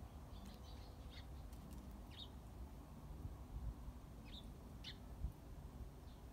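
Small birds chirping faintly: several short, high chirps spaced irregularly, over a low rumble, with one dull thump about five seconds in.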